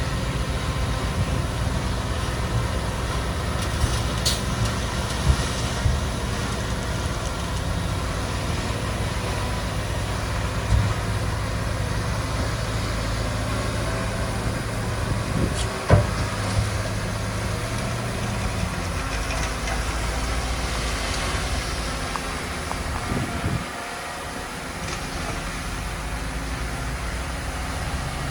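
Heavy diesel earthmoving machinery running steadily with a low engine drone and a few sharp clanks, the loudest about two-thirds of the way through. The drone dips briefly near the end, then picks up again.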